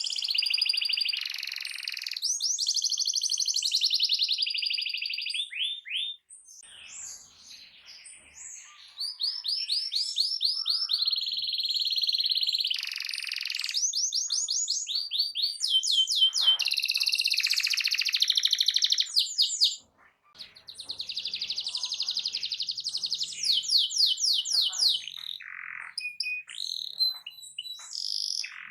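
Domestic canary singing a loud, fast song of rapid rolling trills and quick repeated sweeping notes. There is a quieter, scattered stretch after about six seconds and a brief break at about twenty seconds.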